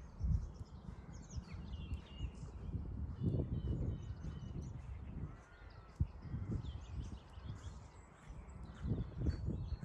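Birds chirping and trilling in short, overlapping calls over wind gusting on the microphone, which comes in uneven low rumbles that are the loudest sound.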